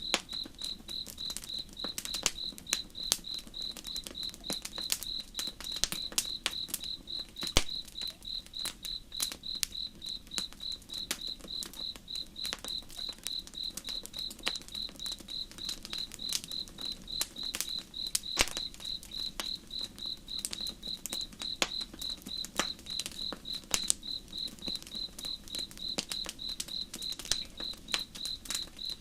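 Crickets chirping in an even rhythm, about two to three chirps a second, over the irregular snaps and pops of a crackling campfire.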